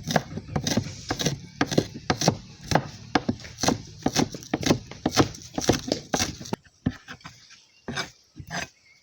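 Knife chopping vegetables on a cutting board, about three quick strikes a second, then slower, scattered cuts in the last couple of seconds.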